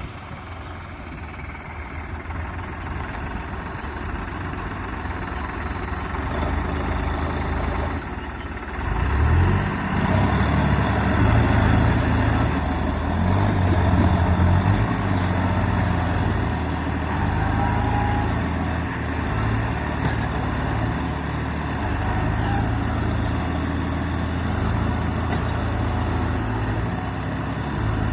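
Tractor diesel engine running, then revving up about nine seconds in and staying loud and steady after that.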